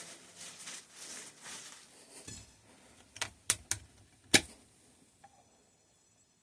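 Fork parts being handled on a workbench: soft rubbing and scraping, then four sharp clicks of small hard parts or tools knocking together or being set down, the last the loudest.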